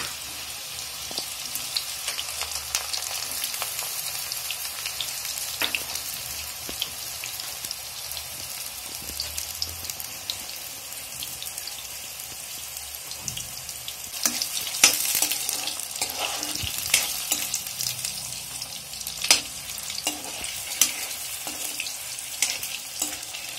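Soya chunks shallow-frying in hot oil in a kadhai: a steady sizzle with crackles. In the last third, sharp knocks and scrapes of a metal spatula against the pan as they are stirred.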